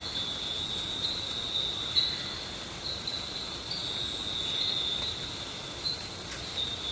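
Steady high-pitched chirring of an insect chorus in woodland, one continuous tone that swells slightly now and then, with a couple of soft knocks and a faint click near the end.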